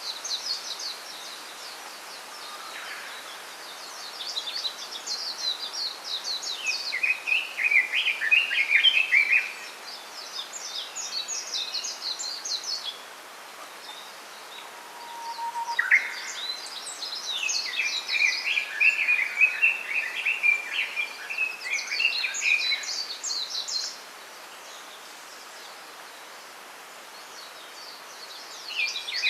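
Small songbirds twittering in rapid chattering bouts of a few seconds each, some higher and some lower in pitch, with short pauses of steady background hiss between bouts.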